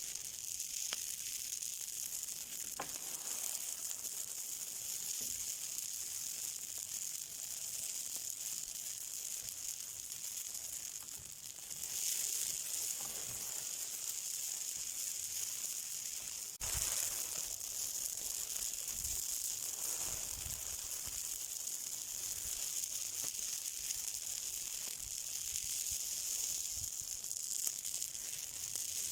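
Something burning with a steady, high sizzling hiss and light crackle, with one sharp crack partway through.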